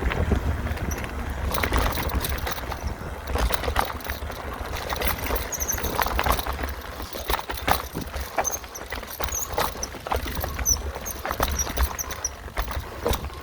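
Mountain bike on a rough singletrack descent: the bike rattles and knocks irregularly over bumps, with short high squeaks and wind rumbling on the microphone.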